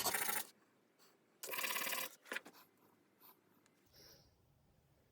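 A carbon starter brush rubbed back and forth on sandpaper by hand: one rasping stretch ending about half a second in, another lasting under a second a little later, then a few faint clicks of handling. The brush is being shaped because it still goes into its holder too tight.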